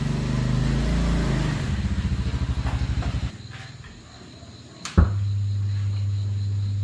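Motorcycle engine running with a rapid rhythmic beat, its pitch rising and falling, then stopping abruptly about three seconds in. About five seconds in, a sharp click is followed by a steady low hum.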